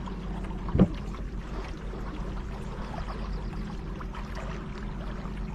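Kayak on the river: steady water and hull noise over a low, even hum, with a single knock about a second in.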